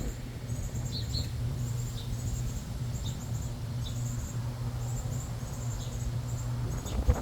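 Backyard birds chirping: short high chirps about once a second over a higher, rapid chittering, with a steady low hum underneath. A single thump near the end.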